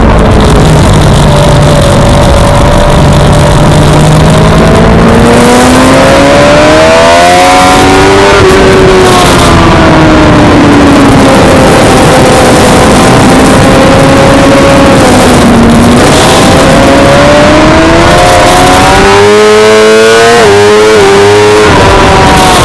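Suzuki GSX-R600 inline-four engine at racing revs, its pitch climbing and falling again and again as it accelerates and backs off. There is a steady rushing noise underneath, and about three-quarters of the way in the pitch drops in quick uneven steps.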